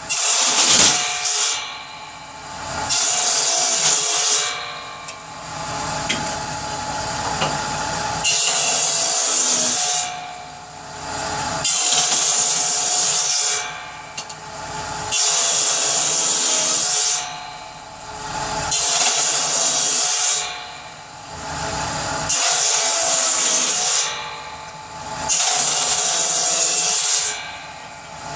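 Power saw cutting through pieces of firewood one after another to make kindling. The motor runs steadily, and about eight loud cuts of a second or two each come roughly every three and a half seconds.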